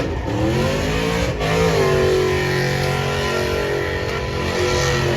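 Truck engine revving up over the first second and a half, dipping briefly, then held at high revs.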